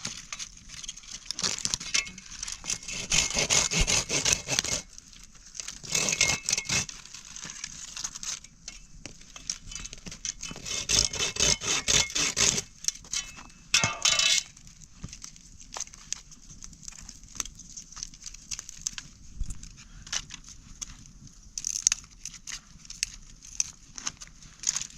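Irregular rustling, crackling and clinking of objects being handled, in bursts of a second or two with quieter stretches of scattered clicks between them.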